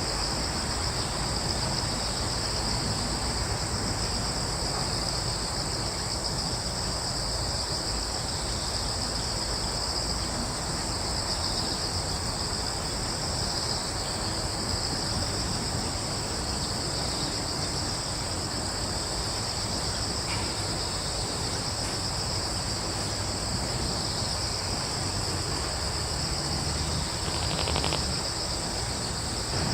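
A chorus of crickets trilling without a break, at two overlapping high pitches, over a low steady rush of breeze.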